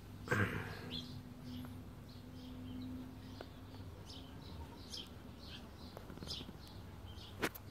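Small birds chirping in the background, short high chirps scattered throughout, over a low steady hum. A knock about half a second in and a sharp click near the end.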